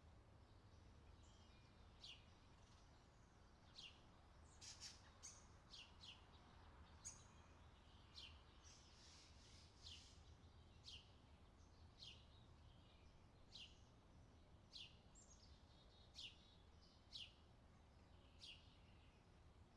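Faint outdoor summer ambience: birds chirping, with short downward-sweeping calls about once a second over a low steady rumble.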